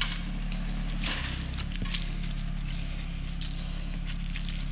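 Rural King RK24 compact tractor's diesel engine running steadily, a low even hum with scattered light ticks over it.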